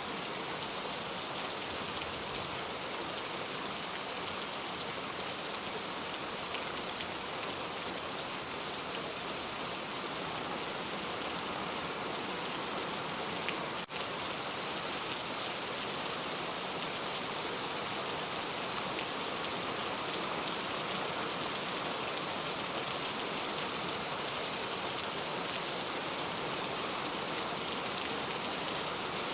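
Steady rain falling, an even hiss of drops with no let-up. There is a split-second dropout about halfway through.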